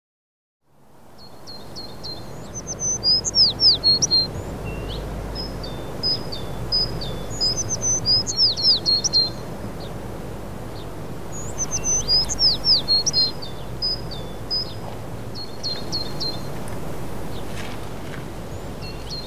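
A songbird singing a phrase of quick chirps and downward-sweeping whistled notes, repeated about every four seconds, over a steady low outdoor rumble. The sound fades in about a second in.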